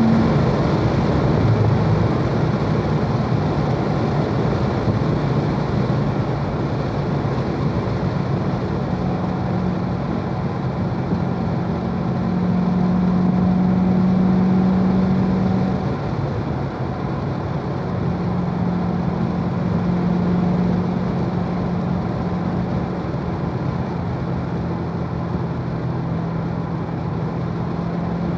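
Chevrolet Corvette Z51's 6.2-litre LT1 V8 cruising in fourth gear at around 3,000 rpm, a steady engine drone. The note eases slightly lower as the car slows, with a small swell in loudness around the middle.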